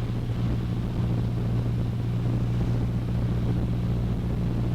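Cessna 152's four-cylinder Lycoming O-235 engine and propeller droning steadily at a constant pitch.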